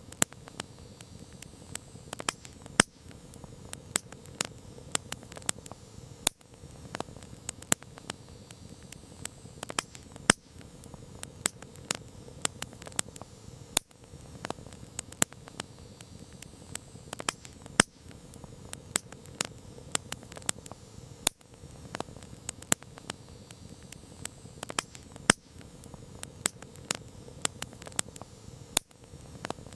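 Campfire crackling: burning wood gives off frequent, irregular sharp pops and snaps over a steady soft hiss.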